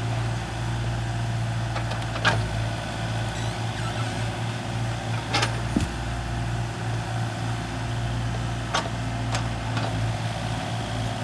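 Kubota mini excavator's diesel engine running steadily, with a handful of sharp metallic clanks scattered through it.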